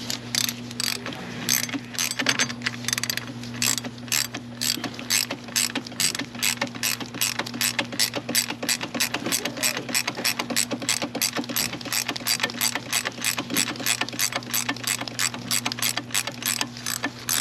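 Hand ratchet clicking steadily, about three clicks a second, as it turns the bolt of a homemade puller drawing a corroded PRNDL switch off a Toyota 4Runner's transmission selector shaft. A steady low hum runs underneath.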